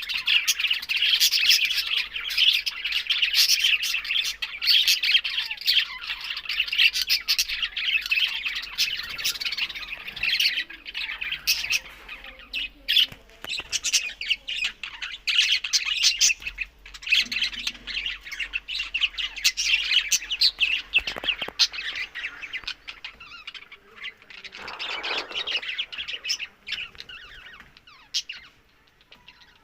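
Budgerigars chattering continuously, a dense stream of chirps, warbles and squawks that thins out and grows quieter in the last several seconds.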